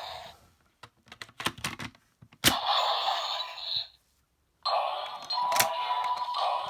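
Plastic clicks of a Progrise Key being loaded into a Bandai DX Shot Riser toy gun. Then a sharp click sets off the toy's small speaker, which plays tinny electronic sound effects and voice lines in two bursts with a short gap between them.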